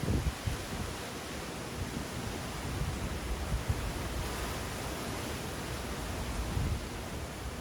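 Steady rushing of hurricane wind, with irregular low gusts buffeting the microphone.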